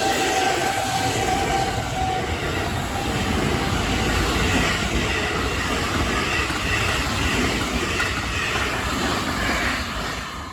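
A train passing close by at a railway level crossing, its wheels running loudly over the rails; the noise eases off near the end as it moves away.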